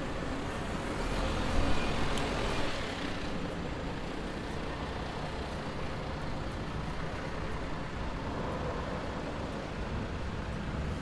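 A motor vehicle passing, loudest about two seconds in, over a steady rush of traffic and wind noise.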